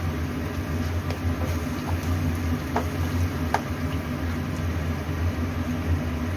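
Chopped onion with ginger and garlic paste frying in oil in a pan while being stirred, with a few light spatula clicks about halfway through, over a steady low hum.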